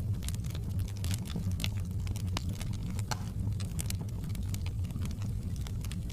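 Fire crackling in a fireplace: frequent irregular snaps and pops over a steady low rumble of the flames.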